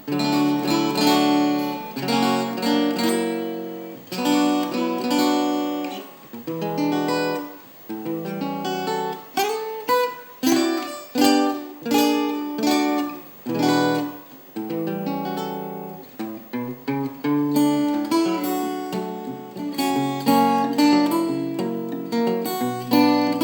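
Requinto guitar fingerpicked in Travis style, a picked bass line under a plucked melody, played as a sound test of the instrument. There is a short note bend about ten seconds in.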